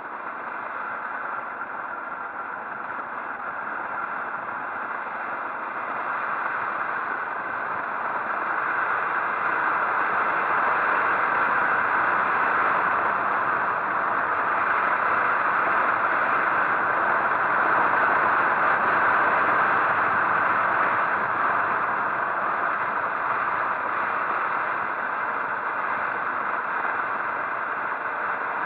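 Steady rushing noise of a motorcycle on the move, a mix of wind and road and engine noise, growing louder over the first ten seconds and easing slightly near the end.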